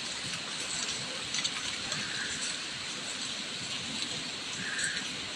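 Heavy rain falling steadily, a constant hiss with a few drops ticking.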